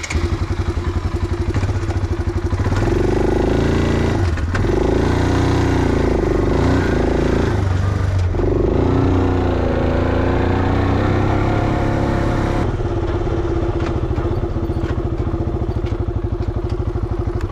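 ATV engine running as it is ridden, its pitch dipping briefly twice as the speed changes, then holding steady until it stops at the very end.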